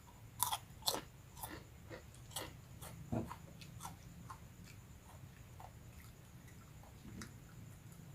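Close-up chewing with crisp crunches from crunchy rambak skin crackers being bitten and chewed. The crunches are loudest in the first second and then grow fainter and sparser.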